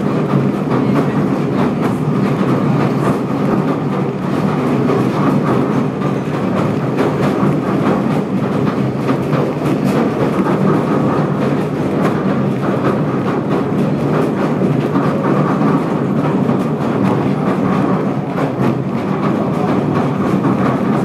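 Southend Pier train running steadily along the pier track, heard from inside the carriage: a continuous rumble of wheels on rails with many quick clicks.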